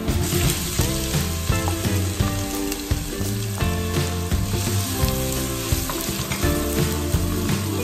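Chopped onion sizzling as it is tipped into hot oil in a pot and stirred, over background music.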